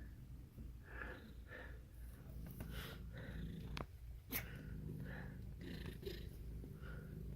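A cat purring, a steady low rumble, with a few short faint sounds over it and a sharp click about halfway through.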